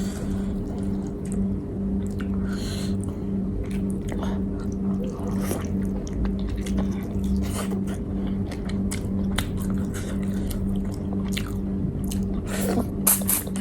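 Close-miked chewing of food, with wet mouth smacks and scattered sharp clicks, over a steady low hum.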